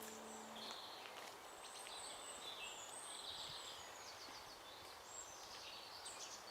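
Faint birdsong: a wild bird repeating high chirps and short trills over quiet outdoor background noise. A held musical tone dies away within the first second.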